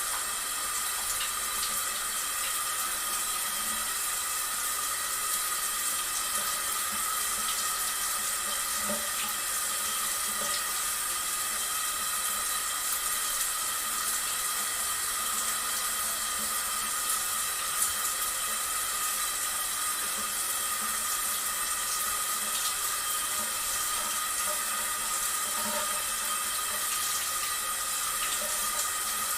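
Steady running and splashing water.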